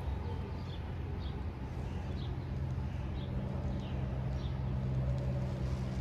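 A bird chirping short high notes about once a second over a steady low hum of distant traffic.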